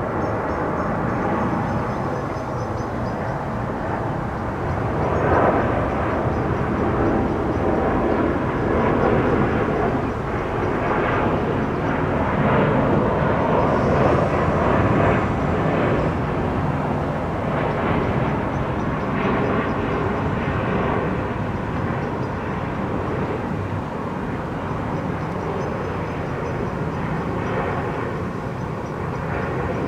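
Airbus A350-941 airliner flying over on approach, its Rolls-Royce Trent XWB jet engines making a steady roar that grows louder about five seconds in and eases slowly after about fifteen seconds.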